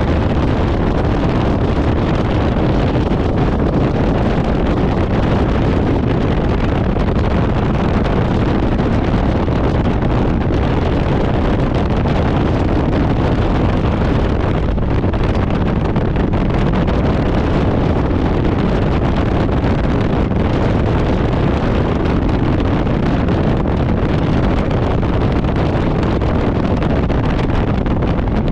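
Harley-Davidson Road Glide's V-twin engine running steadily at cruising speed, mixed with heavy wind rushing over the microphone.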